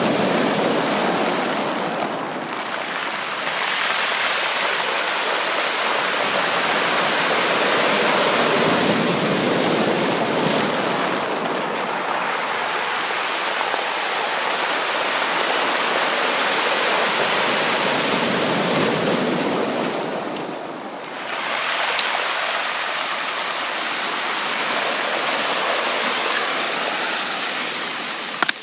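Sea waves breaking and washing up a beach: a continuous rush of surf that swells and eases, dropping away briefly about two seconds in and again about two-thirds of the way through.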